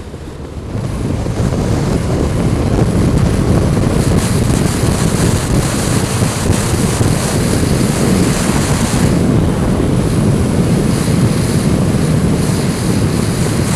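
Wind rushing over a motorcycle rider's helmet microphone, mixed with the bike's engine and road noise, growing louder about a second in and then holding steady.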